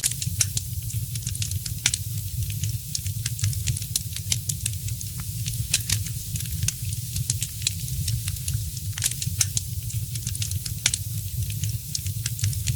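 Wood fire crackling: frequent irregular sharp pops and snaps over a steady hiss and low rumble of the burning fire.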